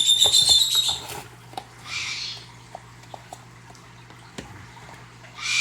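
A pet bird's loud, high call that ends about a second in, followed by two shorter harsh calls, one about two seconds in and one at the end. Light clicks and taps sound in between.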